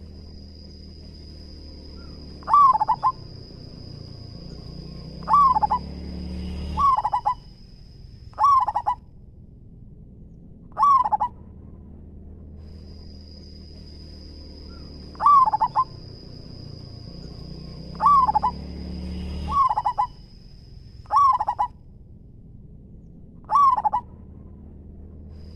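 Zebra dove (perkutut) cooing in short, loud, clipped phrases, about ten in all at uneven gaps, the run of calls repeating after about thirteen seconds. A thin, steady high tone and a low hum sit behind the calls.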